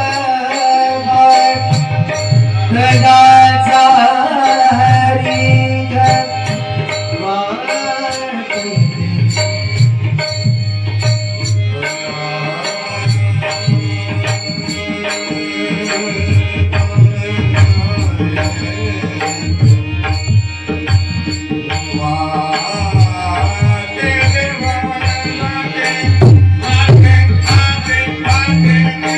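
Tabla drumming in an instrumental passage of a Marathi Warkari bhajan, under a sustained melody line.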